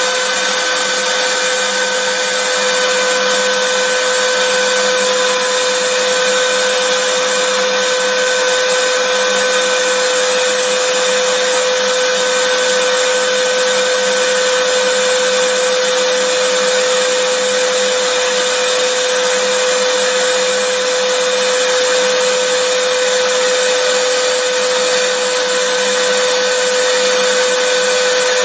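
Vacuum cleaner motor running steadily: a constant whine over a rushing hiss, with no change in pitch or loudness.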